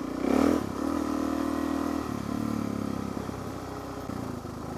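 Suzuki DR-Z400SM single-cylinder motorcycle engine running steadily at low revs, with a brief louder rise about half a second in.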